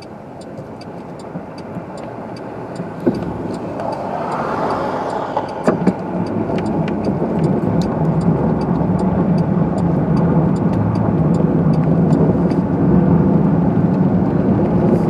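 A car's engine and road noise heard from inside the cabin, growing steadily louder as the car picks up speed. A faint, regular ticking runs throughout.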